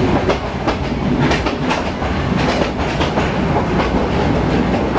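Yangon Circular Railway passenger train running along the track, heard from inside a carriage: a steady rumble with repeated, irregular clicks and knocks of the wheels over the rails.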